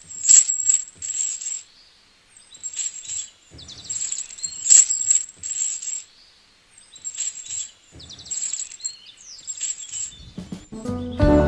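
Small birds chirping in short, high-pitched bursts with pauses between them.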